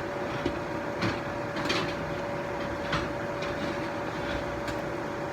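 A steady kitchen appliance hum, with a few light knocks and scrapes of cookware being handled, about one, two and three seconds in.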